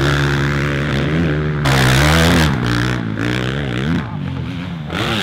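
Motocross bike engines revving, their pitch rising and falling as the throttle is opened and shut. There is a loud burst at full throttle about two seconds in, which drops off sharply.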